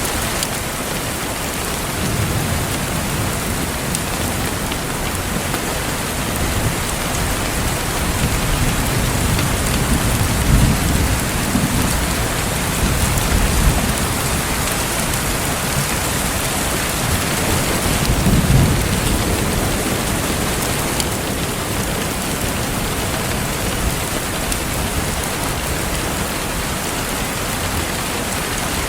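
Steady rain falling in a continuous even hiss, with a couple of low rumbles of thunder rolling through, one about a third of the way in and another past the middle.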